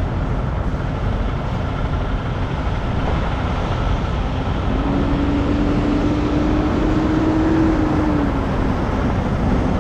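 Semi-truck diesel engine running steadily with a low rumble; about halfway through its pitch climbs slightly as it revs, then drops back off before picking up again near the end.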